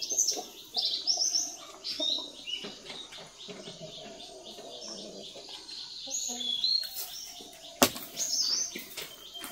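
Birds chirping with short, high calls throughout, over lower wavering calls, and one sharp click a little before the end.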